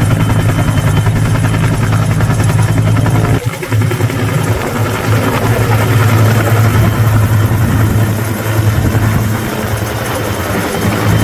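Firefighting helicopter's rotor and engine running steadily and loudly, with a brief dip in level about three and a half seconds in.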